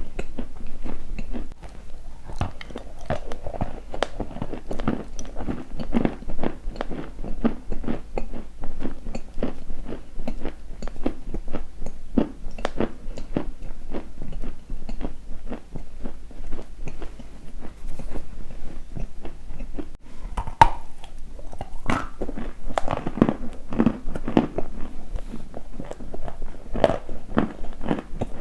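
Close-miked crunching: a dense, unbroken run of short cracks as something crisp is crushed, with a few sharper cracks about three quarters of the way through.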